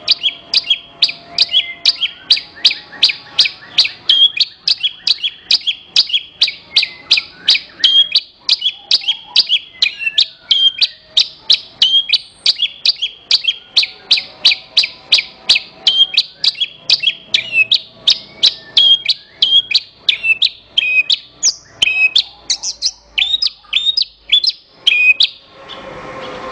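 Javan bush lark (branjangan) singing a rapid series of sharp, high chirps, about two or three a second, which stops shortly before the end.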